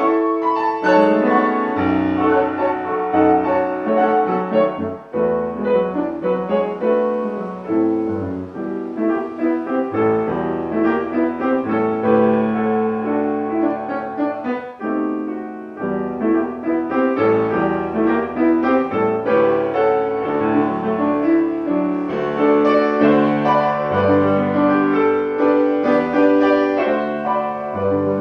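Classical piano music: a flowing passage of many overlapping notes played without a break.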